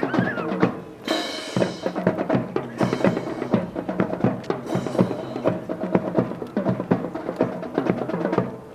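Drill team's rifles clacking and slapping, with boots striking the ground, as many sharp knocks in quick succession; a brief bright clatter about a second in.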